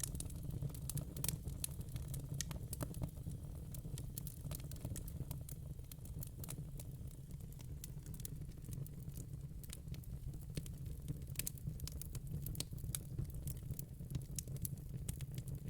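Wood fire crackling: irregular sharp pops and snaps from burning logs over a steady low rumble.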